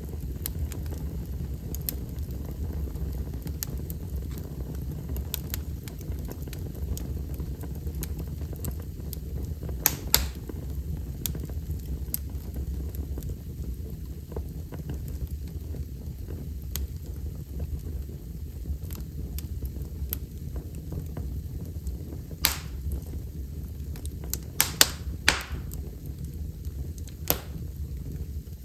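Wood fire burning in a fireplace: a steady low rumble of the flames with a scatter of small crackles and a few sharper pops, loudest about ten seconds in and in a cluster near the end.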